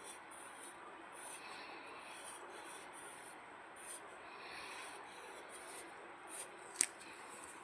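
Pencil scratching on paper in repeated strokes, with one sharp tap near the end.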